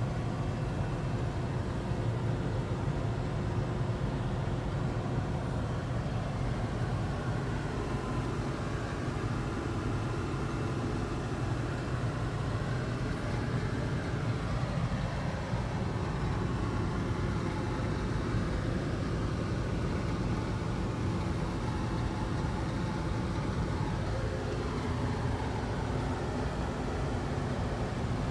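International Harvester 1470 hillside combine running steadily while harvesting wheat, its engine and threshing machinery droning evenly with small shifts in pitch.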